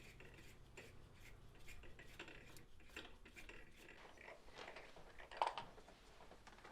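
Faint, scattered clicks and light metal taps of a spark plug socket and ratchet working a spark plug out of the cylinder head, with one slightly louder tap about five and a half seconds in.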